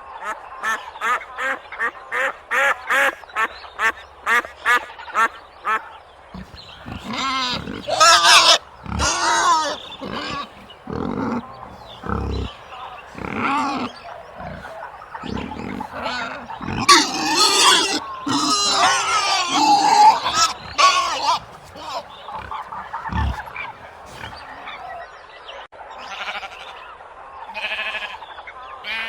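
Recorded farm animal calls: a fast run of duck quacks, about three a second, for the first six seconds, followed by a mix of other louder, varied animal calls.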